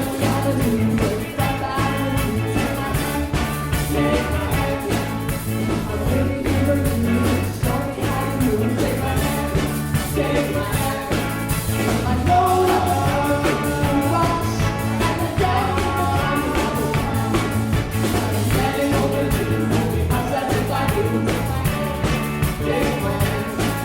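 A live band playing an upbeat rock song on drums, bass guitar, guitar and accordion.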